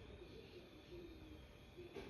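Near silence: faint background hum with no distinct sound.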